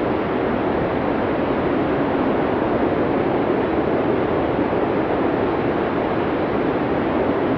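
Blizzard wind blowing steadily: a dense, even rush, fullest in the low middle, with no gusts rising or falling.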